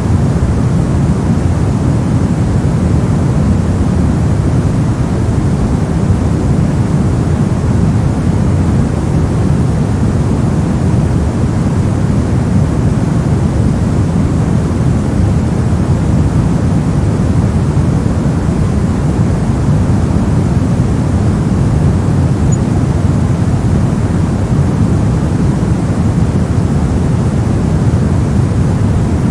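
Steady generated noise track sold as white noise for sleep: a continuous, even rush, deep and full in the low end with little hiss on top, and no changes.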